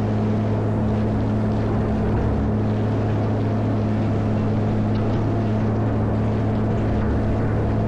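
Caterpillar 140M motor grader's diesel engine running steadily under load, a constant low drone with an even hum.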